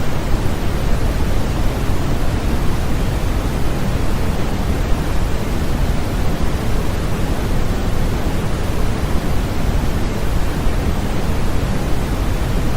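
Steady sleep-aid white noise: a continuous, even hiss weighted toward the low end, unchanging throughout.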